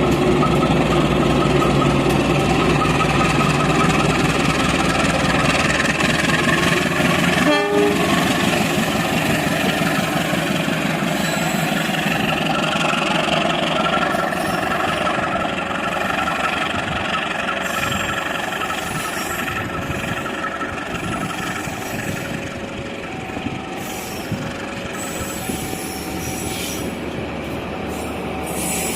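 A train passing close by: a steady rumble and clatter of wheels on rails, easing off somewhat in the second half.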